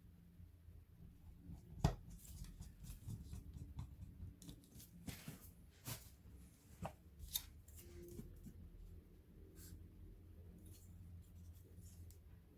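Faint, scattered clicks and scrapes of hands working on an opened laptop's internals, with the sharpest click about two seconds in.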